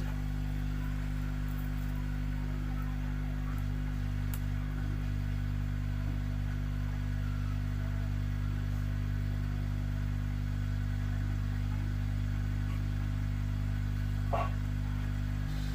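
Steady mains hum from a homemade 3773 audio amplifier board through its speaker, with the volume turned to zero. The builder suspects a shorted transformer or too much supply voltage leaking through the ground line.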